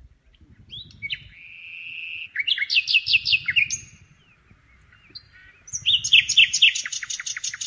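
A songbird singing two phrases about two seconds apart. Each phrase is a held note followed by a fast run of about eight falling notes.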